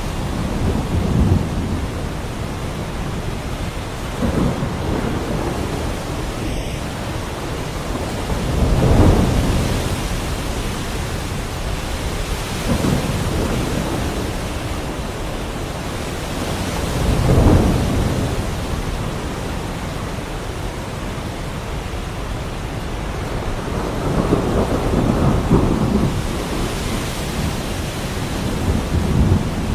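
Heavy rain falling steadily, with low rolls of thunder rumbling through it every few seconds. The loudest rolls come about 9 and 17 seconds in.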